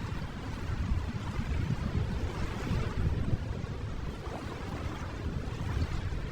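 Steady ocean waves, a soft continuous wash of surf with no distinct breaking crashes, used as a sleep-sound background bed.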